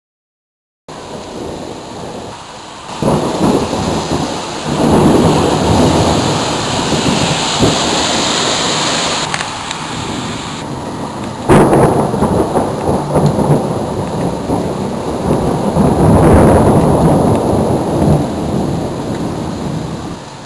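Thunder in a severe thunderstorm over a steady hiss of rain. Long rolling rumbles start about three seconds in, a sharp nearby crack comes about halfway, and another long rumble follows near the end.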